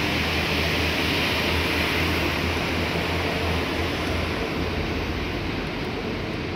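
Steady rumble of a railway vehicle running, a low drone under an even hiss, easing slightly near the end.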